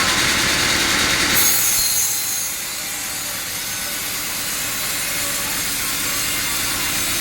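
Sawmill saw cutting teak: a steady, loud sawing noise over a running drive engine. About a second and a half in the sound changes, the low rumble falling away and a higher hiss taking over, a little quieter from there on.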